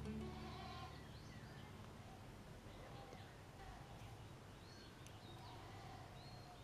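Quiet background with faint bird chirps several times over a low steady hum.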